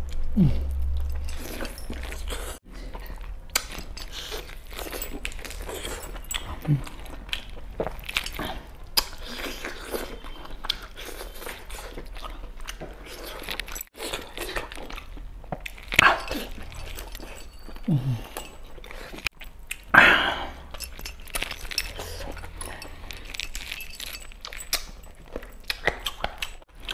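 Close-miked eating: chewing and biting into bone-in chicken and mutton, with many small wet mouth clicks and a few brief low hums, and two short louder mouth sounds about two-thirds of the way through.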